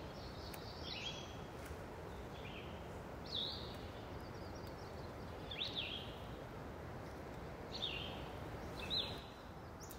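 A bird giving short, high chirps every second or two over a faint, steady outdoor hiss.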